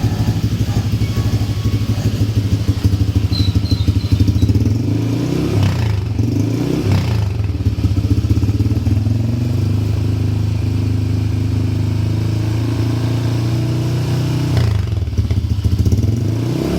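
Honda Vario 125 scooter's single-cylinder four-stroke engine running through an aftermarket exhaust with a deep, pulsing note. It idles, is given a couple of throttle blips about five to seven seconds in, settles back, and is revved again near the end.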